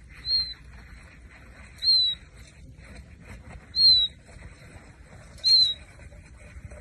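An animal's short, high whistled call, repeated about every one and a half to two seconds, each note rising slightly and then falling, over a faint steady low background.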